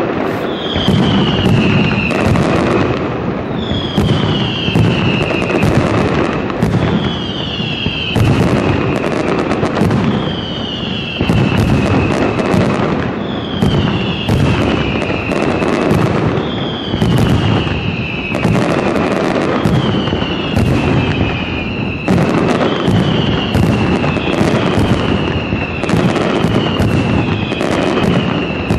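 Aerial firework shells bursting in rapid, continuous succession, a dense run of loud bangs and crackle. A short whistle falling in pitch recurs about every second and a half.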